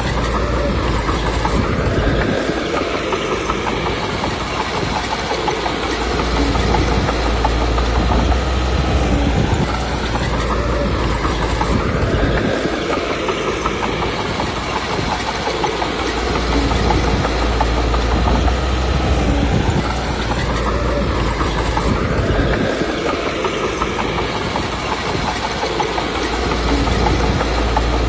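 Komatsu D21P crawler bulldozer's diesel engine running under changing load, with its steel tracks clattering. The sound swells and eases in repeating cycles about every ten seconds.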